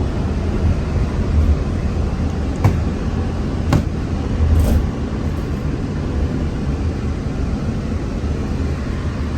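Cabin noise of a Walt Disney World Mark VI monorail car running along the beam: a steady low rumble, with a few short clicks about a second apart partway through.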